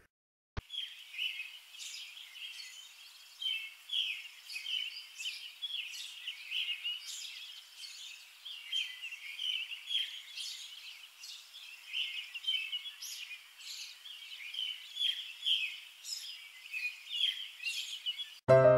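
Many birds chirping and singing in a dense chorus of short, overlapping calls. It cuts off suddenly near the end as piano music starts.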